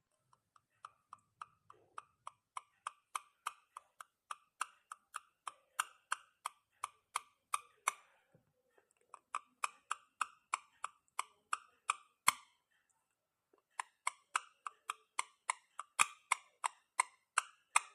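Pet parrot making short, sharp clicking calls, about three a second, in three runs with two brief pauses.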